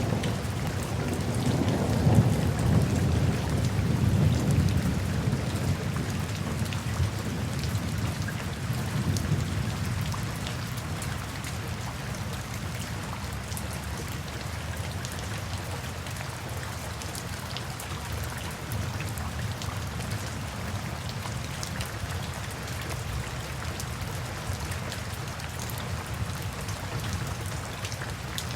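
Steady rain falling, with a low roll of thunder in the first several seconds, loudest a few seconds in, that fades away and leaves the rain alone.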